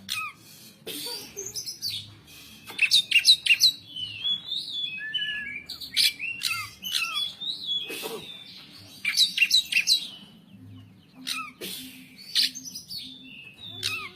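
Oriental magpie-robin (kacer) singing in bursts of crisp, quickly falling whistled notes and clicky 'pletik' calls, with short pauses between phrases.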